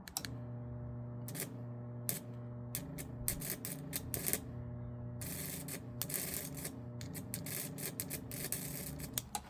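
Microwave-oven transformer humming steadily while switched on, with sharp crackling clicks of high-voltage sparking at the Lichtenberg electrodes. The crackling grows dense about halfway through, and the hum cuts off near the end. The two capacitors keep the current low, so the spark stays small.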